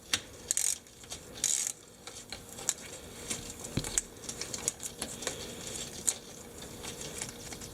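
Hand ratchet wrench clicking in short, irregular runs while a fitting is worked on an ATV, with light metallic tool clicks. Two brief hissy rustles come under a second in and again around a second and a half in.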